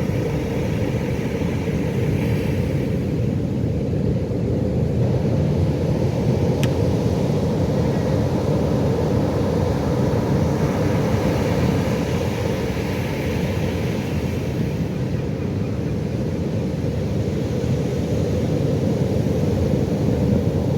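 Pacific Ocean surf: a steady low rumble of breaking waves, with the hiss of the wash swelling twice, about two seconds in and again for a few seconds past the ten-second mark.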